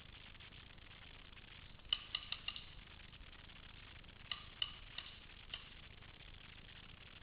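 Paintball markers firing in quick strings of short pops, a burst of about five about two seconds in and another spread from about four to five and a half seconds.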